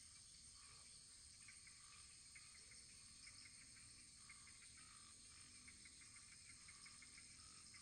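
Faint, steady insect-like chirring: a constant high shimmer with many short chirps repeating a few times a second.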